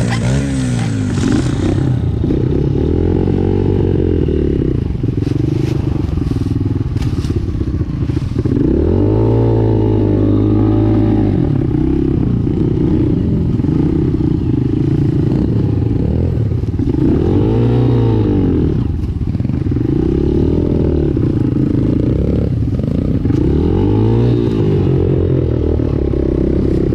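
Dirt bike engine running and being revved up and down repeatedly, its pitch rising and falling several times, with clattering and scraping.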